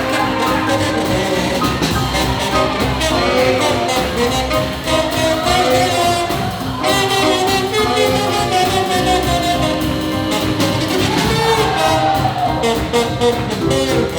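A live swing jazz big band playing dance music, a full ensemble that keeps going without a break.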